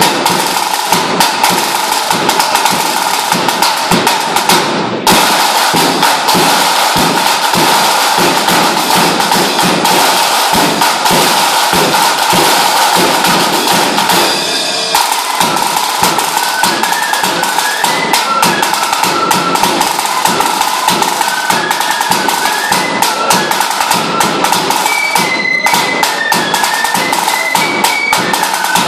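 Lambeg drumming: drums beaten with cane sticks in a fast, loud, unbroken rattle with a ringing tone, pausing briefly about halfway. A high melody of short notes comes in over the drumming in the second half.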